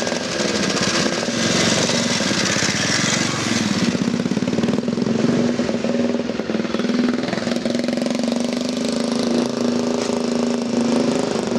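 Classic motorcycle engine being run up: revved for the first few seconds, then held at a steady fast idle.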